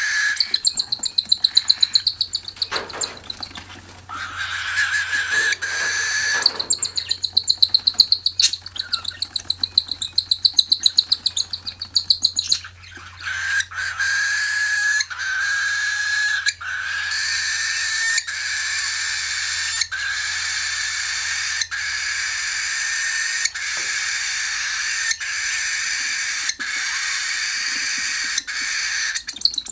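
Cockatiel chicks giving rapid, buzzy begging calls in long pulsing runs at a steady pitch, with a couple of short breaks.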